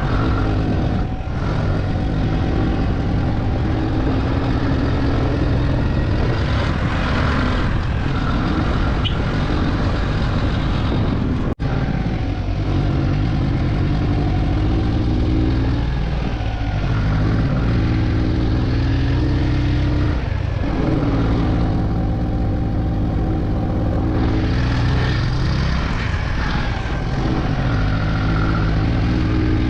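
Motorcycle engine running while being ridden, its pitch rising and falling with throttle and gear changes, with wind rush over the microphone. The sound cuts out for an instant about twelve seconds in.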